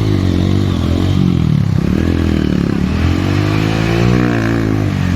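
Trail motorcycle engine running under changing throttle, its pitch dropping and rising again a few times as the rider opens and closes the throttle.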